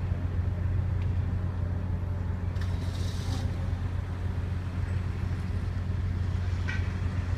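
Steady low drone of a ferry's engine, with a brief hiss about three seconds in.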